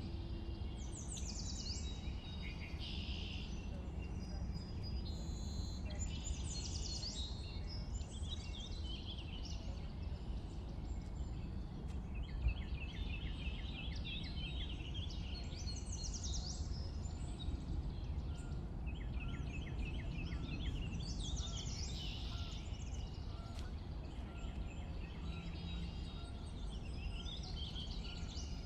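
Songbirds singing in short repeated phrases of quick falling notes and fast trills, every few seconds, over a steady low rumble.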